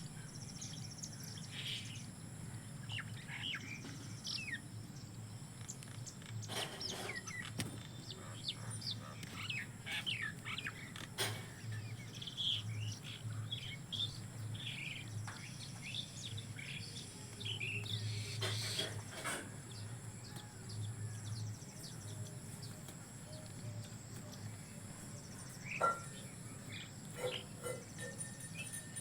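Wild birds chirping and calling, many short quick chirps and calls following one another, over a steady low rumble.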